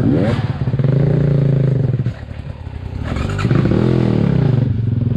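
ATAKI DR 250 enduro motorcycle's single-cylinder 172FMM engine under way. The revs climb sharply at the start and hold steady, then drop off about two seconds in. They rise and fall again in a quick throttle burst near four seconds in before settling back to a steady pull.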